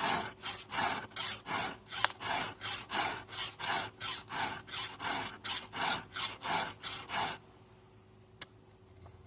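A chainsaw file rasping across a chain's cutter teeth in quick, even strokes, about three a second, before stopping about seven seconds in. A single sharp click comes near the end.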